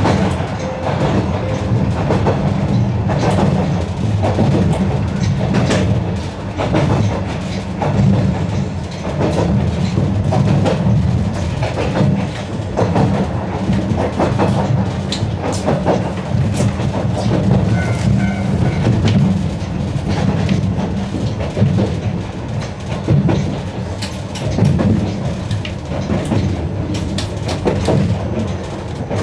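Narrow-gauge electric train running along the line: a steady low rumble, with irregular clacks and knocks from the wheels on the track.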